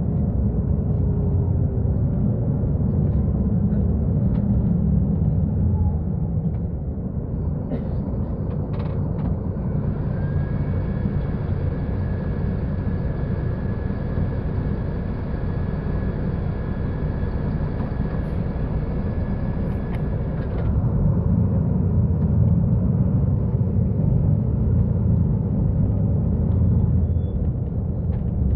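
Diesel engine of a Mercedes-Benz O-500U city bus running with a steady low rumble. It eases off about six seconds in and picks up again near twenty-one seconds. A steady high whine sits over it from about ten to about twenty-one seconds.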